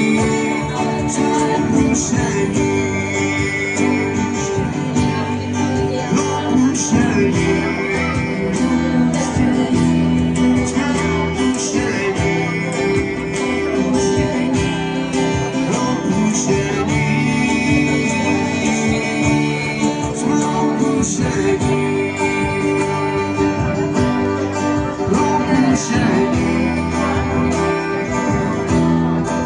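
Live band playing an instrumental passage, guitar to the fore over a steady drum beat.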